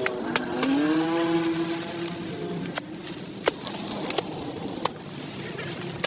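A motor vehicle's engine passing by, its pitch dropping and then rising again in the first two seconds before fading into a steady background hum, with several sharp clicks or knocks scattered through.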